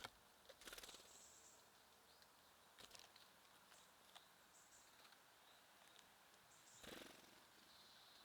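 Faint, scattered short chirps of small birds at a feeder, with two brief rustling bursts, one about a second in and one near the end.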